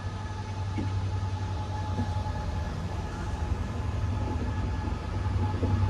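Departing locomotive-hauled passenger train, its coaches rolling past the platform with a steady low hum.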